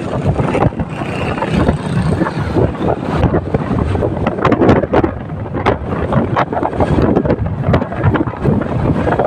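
Wind buffeting the microphone on a moving motorcycle, with steady road and engine rumble underneath and frequent crackles.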